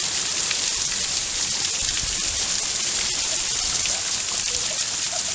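Heavy rain pouring down: a steady, dense hiss full of the patter of falling drops.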